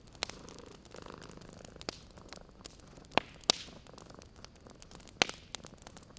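Wood fire crackling, with scattered sharp pops, the loudest a little past three seconds and about five seconds in. A cat purrs softly in the first second or so.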